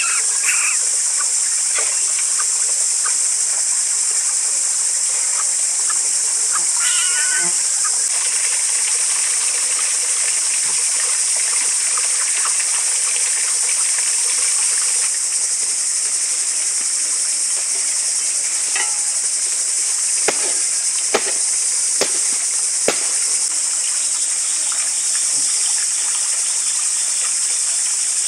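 Forest ambience dominated by a steady, high-pitched insect drone, with a few short chirps about seven seconds in and several sharp knocks in the second half.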